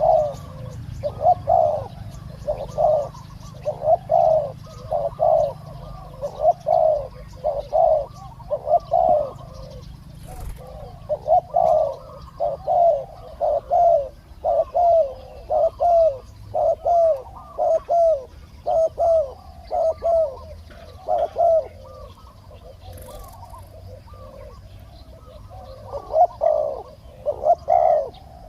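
Spotted doves cooing over and over in quick series of short coos, with a pause of a few seconds near the end before the cooing starts again.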